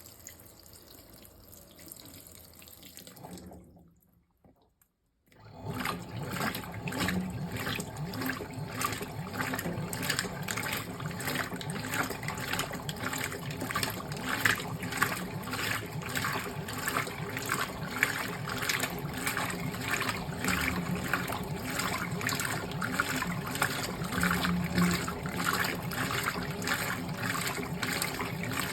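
Fisher & Paykel GW712 top-loading washing machine filling its tub: water runs and splashes in steadily. It starts about five seconds in, after a few seconds of faint sound and a brief silence.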